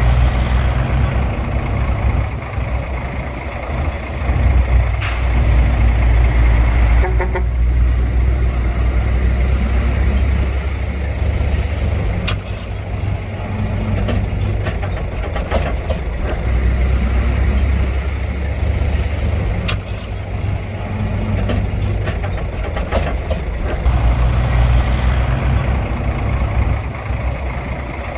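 Heavy diesel earthmoving machinery running under load, its deep engine note swelling and easing several times, with sharp metallic clanks every few seconds.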